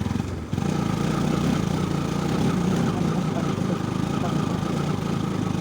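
Liquid-cooled motorcycle engine running steadily, with its note dipping briefly about half a second in and then running a little louder. The engine is running hot on the climb, with its coolant level risen.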